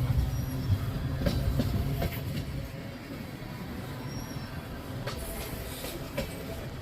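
Freight train cars rolling past: a low rumble with wheels clicking over the rail joints. It is loudest for the first two seconds or so, then eases.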